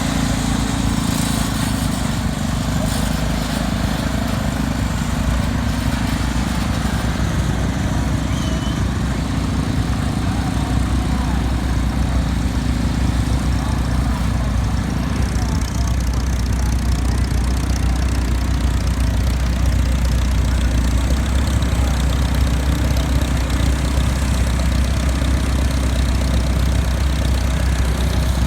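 Tractor engines running steadily, a low rumble under a wide steady noise, with the deep engine note growing stronger about ten seconds in.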